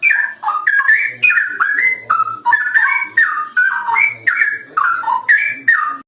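Straw-headed bulbul (cucak rowo) in full song: a loud, unbroken run of liquid whistled notes, each phrase gliding up and down, stopping abruptly.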